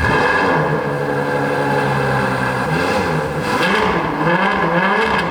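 Ferrari GTC4 Lusso's V12 engine on its stock exhaust, running loud at a steady speed, then revved up and down a few times in the second half.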